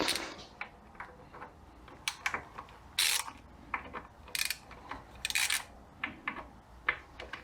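Ratchet wrench with a T25 Torx bit loosening screws: several short bursts of ratchet clicking, with scattered metal clicks between them.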